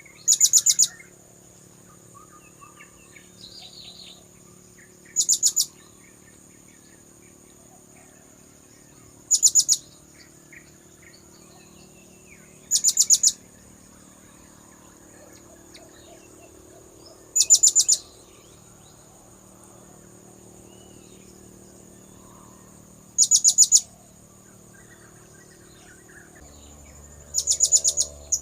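Blue-crowned hanging parrot (serindit) lure call: seven short bursts of quick, thin, high-pitched notes, repeated every four to six seconds.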